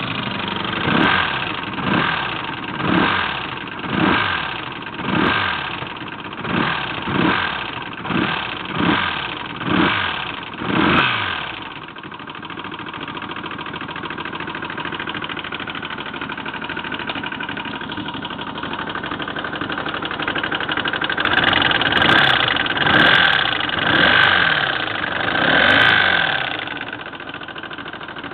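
Honda GL1200 Gold Wing's flat-four engine, idling and blipped about once a second for roughly the first eleven seconds, then idling steadily, then revved four more times near the end. It is being run to show a knocking sound.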